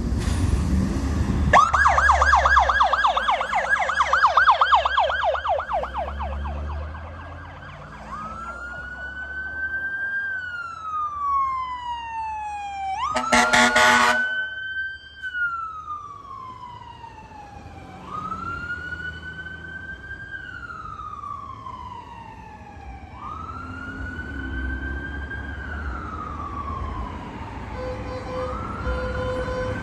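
Electronic emergency-vehicle siren going by: a fast yelp for the first few seconds, then slow rising-and-falling wail cycles about every five seconds. A single loud horn blast comes about 13 seconds in, over a low engine rumble.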